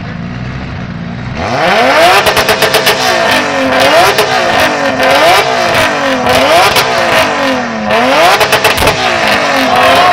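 Tuned Nissan RB straight-six engine idling, then revved hard about a second and a half in: a rising rev, then repeated blips up and down about once a second, with fast stuttering at the top of the revs twice.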